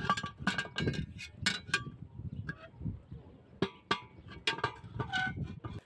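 Pieces of glass clinking: about a dozen sharp, ringing chinks at irregular intervals over a low, steady rumble.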